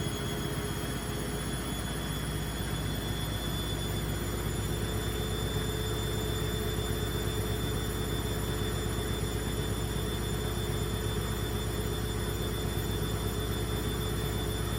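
Indesit Innex washing machine running its spin cycle with a loud noise: a steady rumble and hum with a fast, even pulsing, growing slightly louder a few seconds in.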